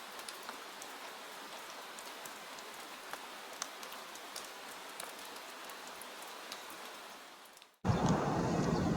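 Soft rain sound effect: a steady hiss of light rain with scattered single drops ticking, fading out near the end. It gives way abruptly to louder outdoor sound with a low rumble.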